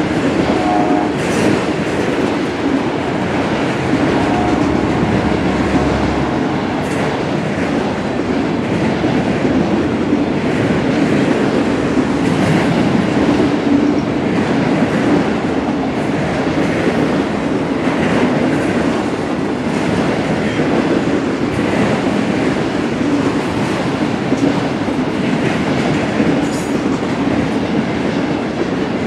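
Autorack freight cars rolling past close by: a loud, steady rumble of steel wheels on rail, with a few brief clanks and a faint wheel squeal in the first few seconds.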